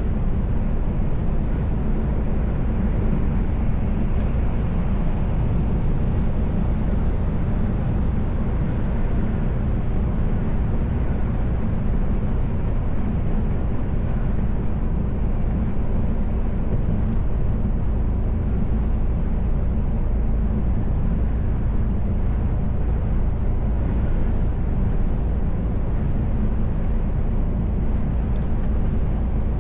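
Steady low drone of a Mercedes Actros L truck's engine and tyres heard from inside the cab while cruising, with no change in pitch or loudness.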